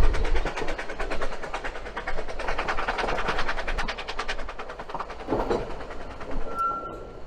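Train running on rails with a fast, even clatter that fades after the first few seconds. A brief high-pitched tone sounds near the end.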